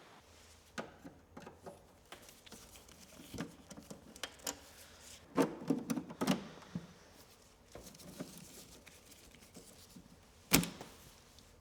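Scattered clicks, taps and knocks of a Macintosh Performa 580CD's plastic case and parts being handled and taken apart, busiest around the middle, with one sharp knock near the end.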